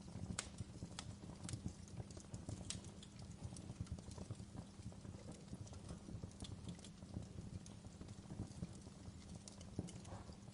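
Wood log fire burning in a fireplace: a dense low crackle with irregular sharp pops and snaps scattered through it.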